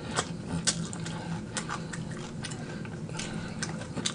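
Chewing fried chicken wings close to the microphone: irregular crisp crunches and mouth clicks, over a steady low hum.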